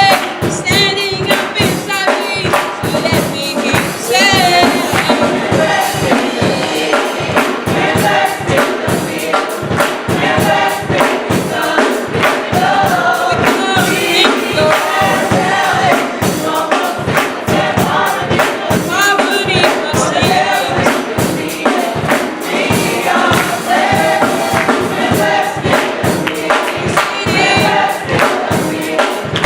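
Youth gospel choir singing together over a band with a steady beat.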